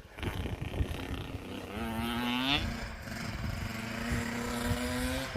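Dirt bike engine on a motocross track, its pitch rising as it revs up about two seconds in, then running at a steady pitch.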